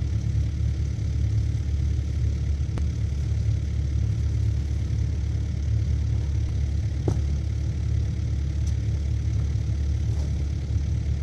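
Excavator's diesel engine running steadily with a low drone, with a few faint clicks over it.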